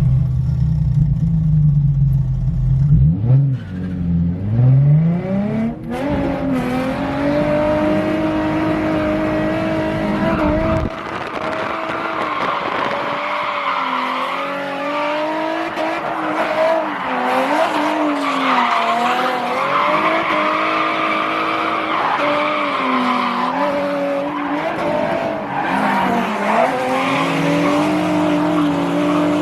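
Drift car engine revving hard through a lap, the revs climbing steeply a few seconds in, then held high and repeatedly dipping and rising as the car is thrown through transitions, with tyres squealing.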